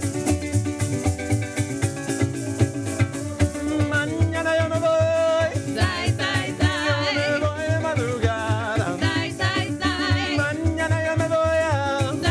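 Live parang band playing: maracas shaking a steady beat over strummed strings, with a wavering melody line coming in about four seconds in.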